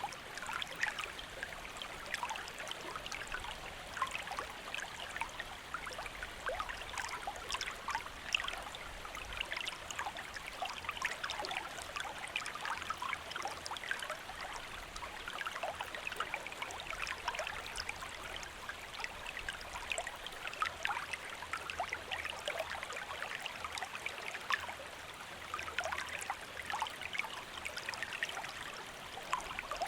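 Small stream flowing and babbling steadily, with many small trickles and splashes over the water.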